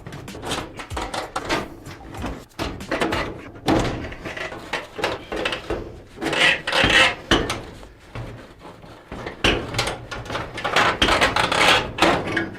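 Irregular scraping, rubbing and knocking from hands working on a furnace flue pipe, a rapid string of clatters and rasps.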